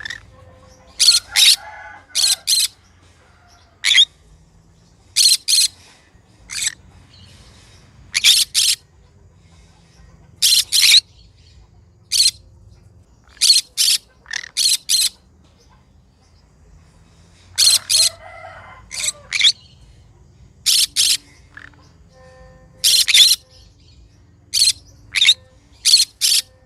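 Green conure giving short, shrill calls, mostly two or three in quick succession, repeated every second or two.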